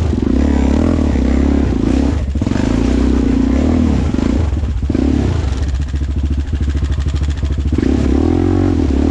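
ATV engine running loud under way, its revs rising and falling, with brief drops in revs about two and five seconds in.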